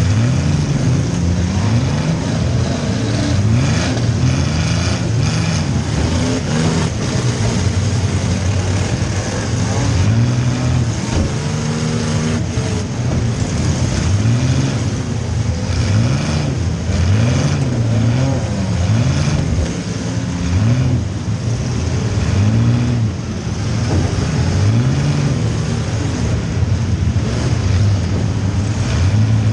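Compact derby car's engine revving up and down over and over, heard from inside the car, with scattered knocks and bangs.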